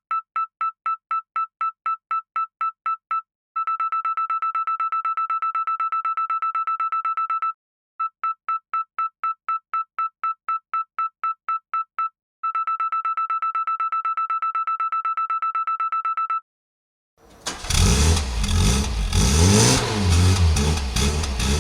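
Reverse parking-sensor beeping: a high steady beep repeating about six times a second, then quickening to a rapid, almost continuous beep as the vehicle nears an obstacle; this happens twice. About seventeen seconds in an engine starts revving.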